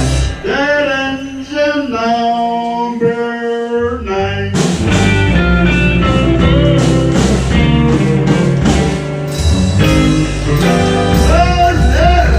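Live blues band playing an original song. For a few seconds the band thins out to held melody notes, then the full band with drums comes back in about four and a half seconds in.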